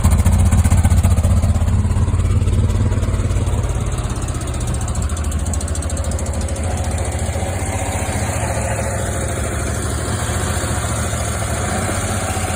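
2002 Jeep Liberty engine idling with a fast, even ticking that the owner asks about as a possible lifter tick. It runs a little quieter from about four seconds in.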